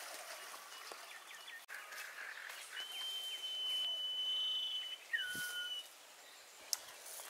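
Outdoor ambience with a bird calling: one long, steady, high whistled note, then a shorter note that drops in pitch and a brief repeat of the high note.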